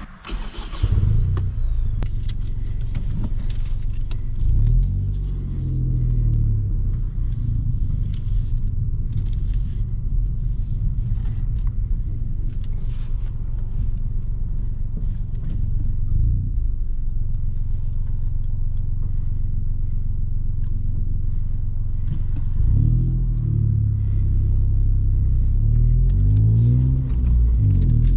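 Ford Fiesta ST Mk8's turbocharged 1.5-litre three-cylinder engine through a Milltek exhaust, running at low revs with a steady rumble. The revs rise and fall briefly about five seconds in, and climb in a series of pulls near the end.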